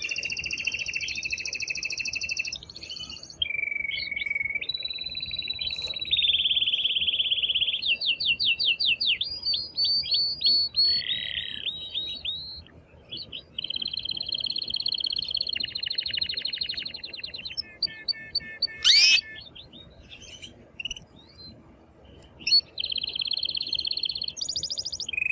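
Male domestic canary singing excitedly: an unbroken string of rapid trills and rolls that jumps from one pitch to another every second or two, with a quick upward sweep about three-quarters of the way through. This is the vigorous courtship song a male canary uses to stimulate a female.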